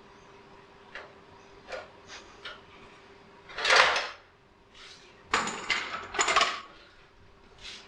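Light-fixture parts being handled: a few small clicks and knocks, then two louder clattering scrapes about three and a half and five and a half seconds in, over a faint steady hum.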